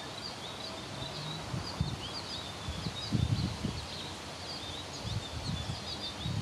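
Small birds chirping: short, high chirps repeated many times over a steady outdoor hiss, with a brief low rumble about three seconds in.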